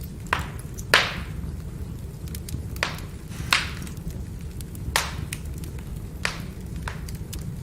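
Burning firewood crackling: about seven sharp pops and snaps, the loudest about a second in, over a steady low rumble and many faint ticks.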